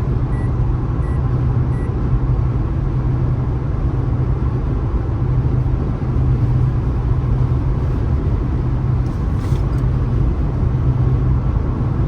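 Car driving at steady speed: continuous road and engine noise with a steady low hum. A few faint short beeps sound in the first two seconds.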